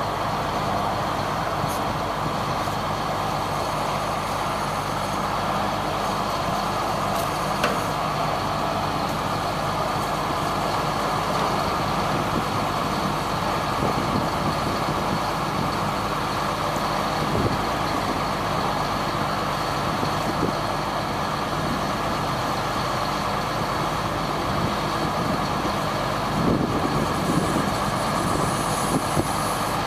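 1999 GMC digger truck running steadily, with a few light knocks along the way.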